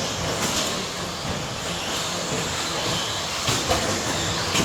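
Several 1/10-scale electric RC stadium trucks with 13.5-turn brushless motors racing: the steady whine of the motors and drivetrains mixed with tyre noise, with a few sharp clacks.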